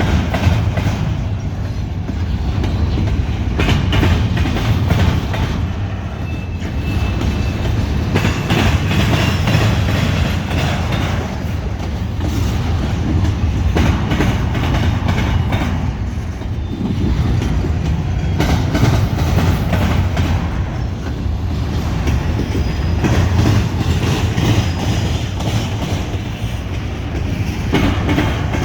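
CSX double-stack container train rolling past, its steel wheels clacking in repeated groups over the rail joints, with a steady low rumble and now and then a faint wheel squeal.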